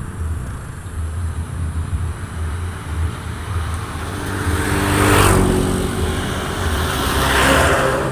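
Two road vehicles passing by, the first about five seconds in with a pitched engine hum and the second about two seconds later, each rising and fading away. A steady low rumble runs underneath.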